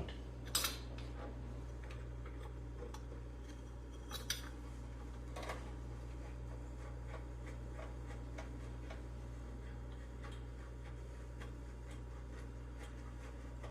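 A few small metal clicks and taps of hand tools working at a carburetor's throttle linkage, over a steady low hum.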